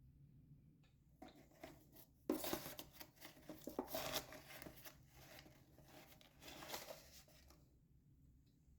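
Crisp crunching and crackling of something brittle being crushed, in irregular bursts starting about a second in, loudest between about two and four seconds in, and dying away shortly before the end.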